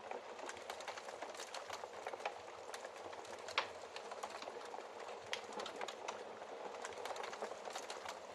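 Wood fire in a fireplace crackling: a steady hiss dotted with frequent small pops and snaps, one sharper snap about three and a half seconds in.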